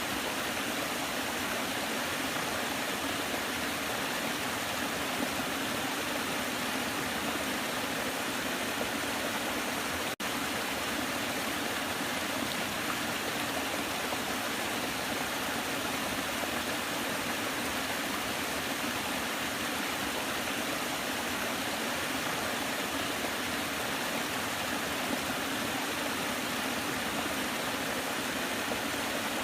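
Waterfall: water falling and rushing in a steady, even roar, with a momentary dropout about ten seconds in.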